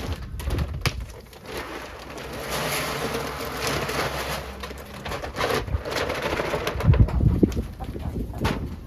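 Chicken feed pouring from a bag into a feeder with a steady hiss, with several knocks, the loudest near the end, while chickens make soft cooing calls.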